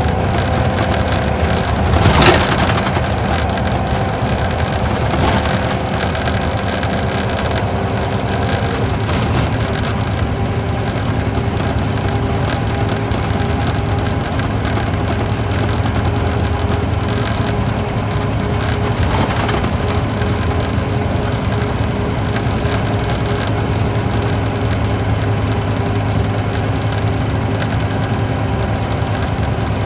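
Isuzu Gala KL-LV781R2 coach's V8 diesel engine and road noise heard from inside the bus while it drives at a steady pace, with a low drone and a steady whine. A single sharp knock, like the body jolting over a bump, about two seconds in.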